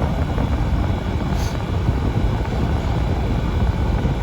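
Fedders window air conditioner running on high cool, largely covered by a loud, fluctuating low rumble. The rumble falls away near the end.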